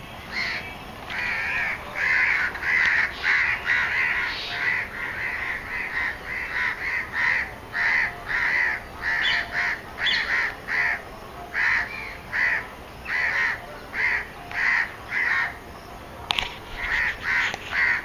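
A bird calling over and over, short calls repeated about twice a second, with a brief gap and a single sharp click near the end.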